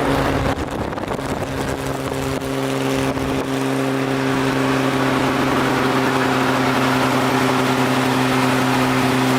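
Car driving at a steady speed: a constant engine drone at one unchanging pitch over wind and road noise, with some uneven low rumble in the first few seconds.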